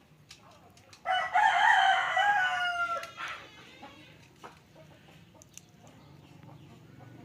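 A rooster crowing once, a call of about two seconds that drops in pitch at the end.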